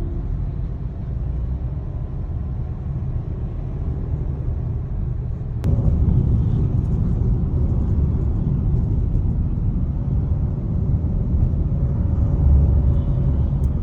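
Steady low rumble of a vehicle on the move. A sharp click comes about six seconds in, after which the rumble is louder.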